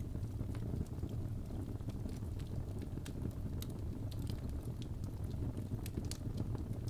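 Wood fire crackling in a fireplace: a steady low rumble of flames with frequent small, sharp pops and snaps.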